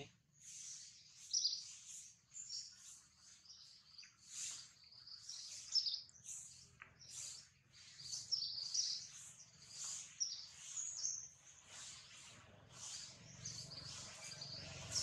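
Small birds chirping and twittering, many short high calls that follow one another irregularly, over a faint steady low hum.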